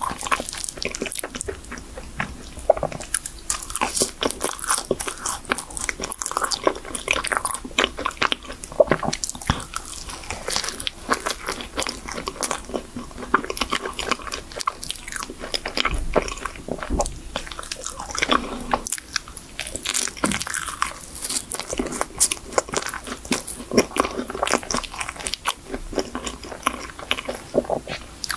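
A person biting and chewing a chocolate cream-filled choux puff: a steady run of irregular wet mouth clicks and bites.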